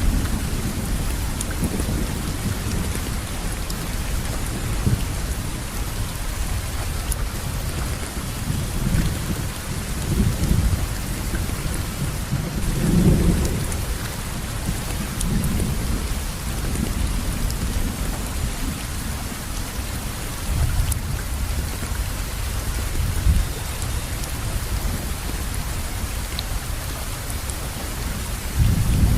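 Steady rainfall, with a low thunder rumble underneath that swells up several times.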